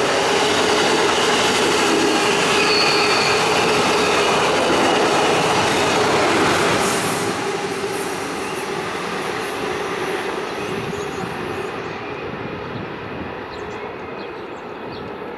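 A train passing close by: loud rumble of wheels on the rails with a steady squealing tone. About halfway through it begins to fade as the train moves away.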